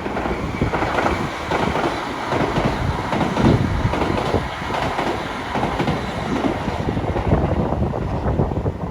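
Shinkansen high-speed train running past, its rail noise mixed with strong wind buffeting the microphone.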